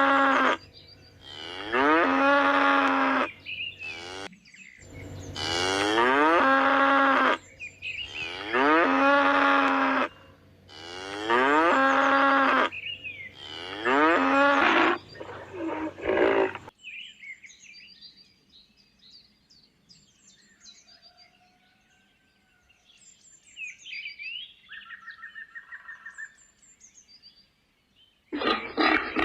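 Cattle mooing: about seven long, loud calls in quick succession, followed by a quieter stretch of short, high bird chirps. A different loud animal sound starts just before the end.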